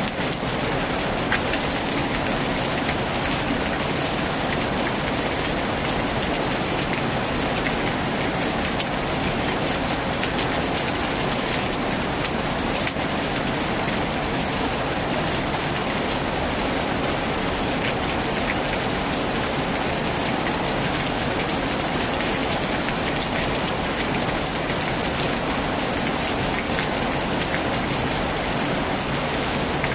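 Heavy rain falling steadily on a tin roof, an even hiss with no thunder or other sudden events.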